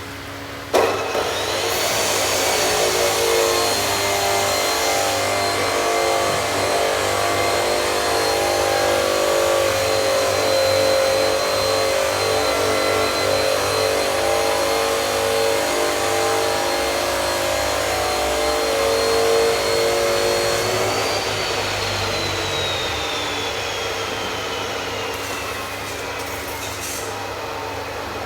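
An electric power-tool motor is switched on about a second in and runs at steady speed with a high whine for about twenty seconds. It is then switched off and winds down, its whine falling slowly in pitch.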